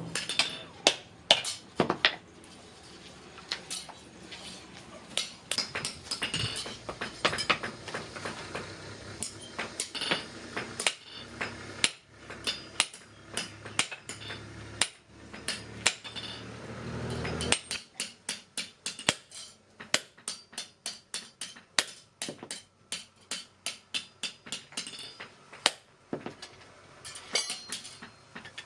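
Blacksmith's hammer striking metal while forging a spade blade, each blow a sharp ringing clank. The blows come irregularly at first over a low steady rumble that cuts off about two-thirds of the way through, then in a fast, even run of about four a second.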